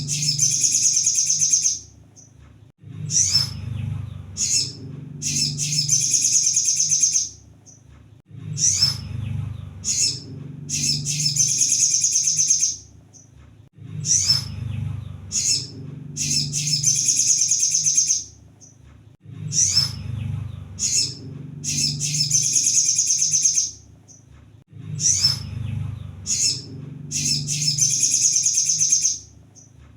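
Crimson sunbird (kolibri sogon) song played as a looped lure recording: a high, thin twittering phrase that repeats the same way about every five and a half seconds, with short gaps between, over a low hum in the recording.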